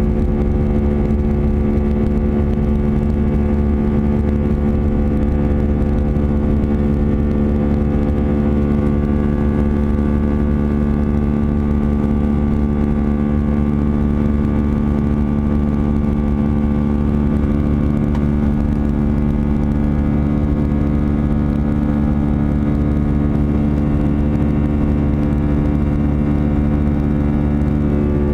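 Airbus A319's CFM56 turbofans at takeoff thrust, heard from inside the cabin: a loud, steady drone with many even tones stacked on top, the "buzzsaw" of the fan blade tips turning faster than sound.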